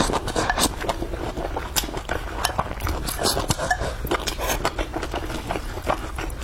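A person chewing and biting food close to the microphone, with many short, sharp clicks.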